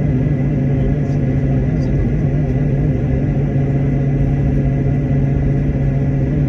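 Aircraft cabin noise in flight: a steady, loud drone of engines and airflow with a constant low hum and a thin steady whine above it.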